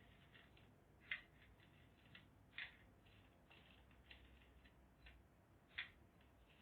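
Hammer lightly tapping a nail: a few faint, sharp taps at irregular spacing, three of them stronger than the rest.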